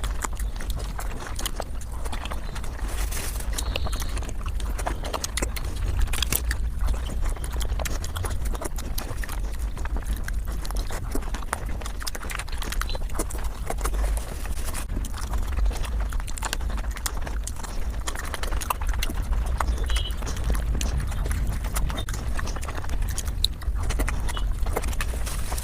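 Mukbang eating sounds sped up five times: a dense, fast run of chewing and mouth clicks over a steady low rumble.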